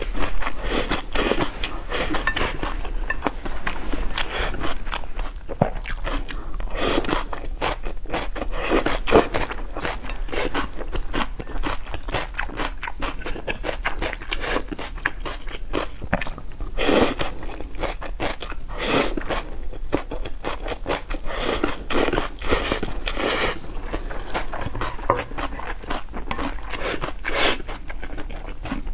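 Close-miked eating of spicy noodle soup: steady wet chewing and mouth clicks, broken every few seconds by a longer burst of noodles being slurped.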